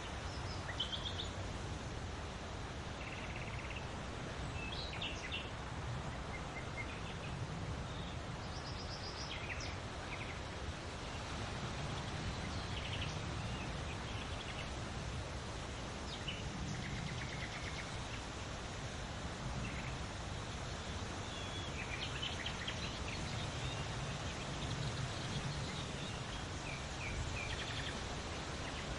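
Steady wind blowing outdoors, its low rumble swelling and easing in slow gusts, with small birds chirping in short bursts throughout.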